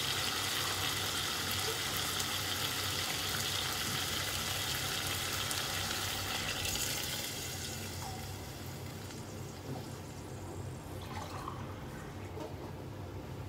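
Chopped chicken and onions sizzling steadily in a stockpot. Water is poured in from a measuring cup about six seconds in, and the sizzle then drops to a quieter simmer with a few small drips and bubbles.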